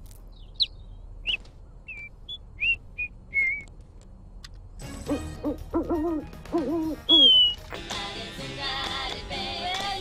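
A small songbird chirping in short, high calls, then from about five seconds in a pigeon cooing in rhythmic phrases. A loud falling whistle sounds near seven seconds, and music comes in for the last couple of seconds.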